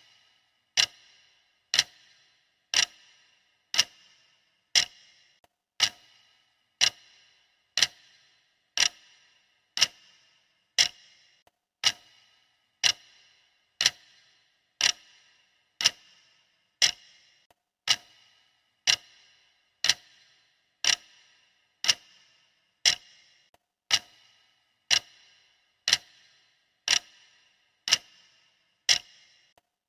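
Clock ticking, one sharp tick each second, each with a brief ringing tail.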